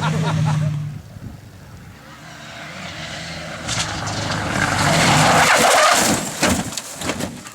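Rally car engine fading away in the first second, then another rally car approaching at full throttle, loudest about two-thirds of the way in before it passes and recedes, with a run of short sharp crackles near the end.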